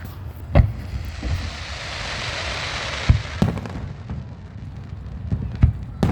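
Fireworks going off: deep bangs about half a second in, two close together around three seconds in and more near the end, with a steady bright hiss rising and fading in between.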